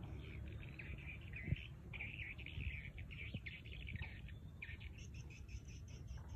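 Small birds chirping rapidly and continuously, with higher calls joining about five seconds in, over a low steady rumble; a single sharp tap about one and a half seconds in.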